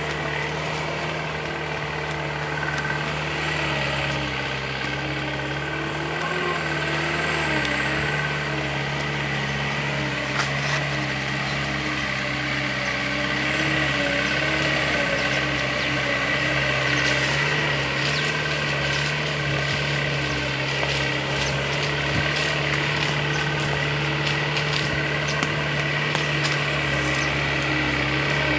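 Engine of a loaded sugarcane truck running steadily, its pitch shifting slightly now and then.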